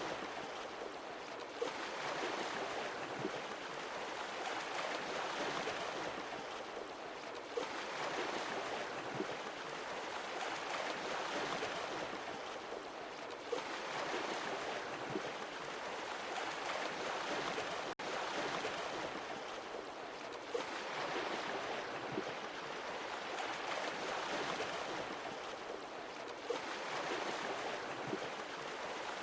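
Sea waves washing onto a shore, each one swelling and fading in a slow cycle about every six seconds.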